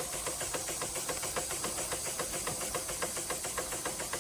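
Märklin 4149/9 live steam engine running steadily: quick, even beats of the working cylinder over a continuous hiss of steam.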